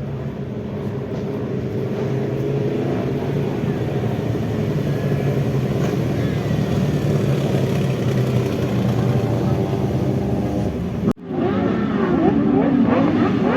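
Motorcycle engines: a steady engine note that slowly grows louder for about eleven seconds, then, after an abrupt cut, engines revving up and down repeatedly in quick blips.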